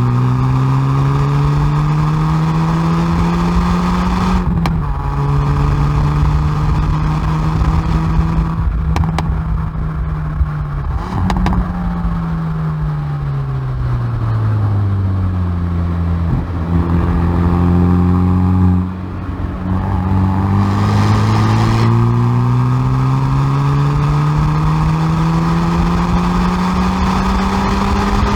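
Hyundai i30N Performance's 2.0-litre turbocharged four-cylinder, heard at the exhaust, driven hard on track. It climbs in pitch to an upshift about four seconds in and holds, then falls under braking, with a few sharp cracks and two blipped downshifts. It climbs again under full throttle to another upshift at the end.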